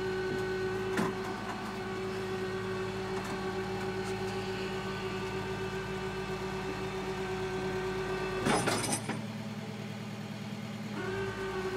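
Flatbed tow truck running, with a steady mechanical whine from its winch pulling the van up the bed. About eight and a half seconds in comes a brief hiss and clatter; the whine then stops and starts again near the end.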